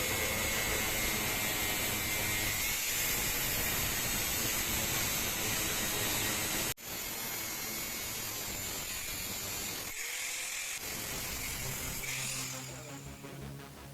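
Small power tool running with a high, buzzing whir. It breaks off sharply about seven seconds in, then resumes.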